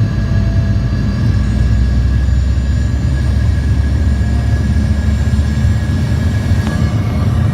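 Airplane cabin noise on the approach to landing: a loud, steady rumble of engines and airflow, with a faint steady whine above it.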